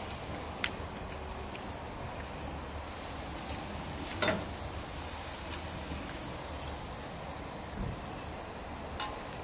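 Peanuts and sliced garlic deep-frying in hot oil in a steel wok: a steady sizzle, with an occasional faint click.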